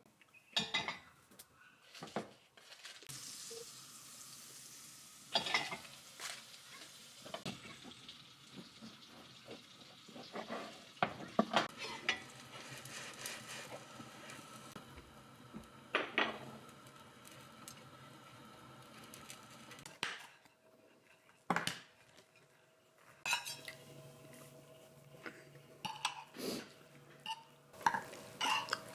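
Pots, pans and cutlery clinking and clattering at irregular moments while cooking, over a faint steady hiss.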